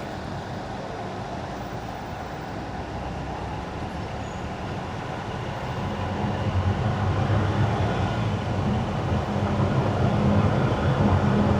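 Car driving on wet winter asphalt: steady tyre hiss with a low hum underneath that grows louder about halfway through.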